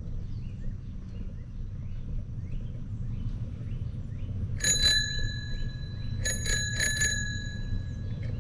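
Bicycle bell rung twice in quick succession about halfway through, then about four quick rings a couple of seconds later, each ring leaving a lingering ringing tone.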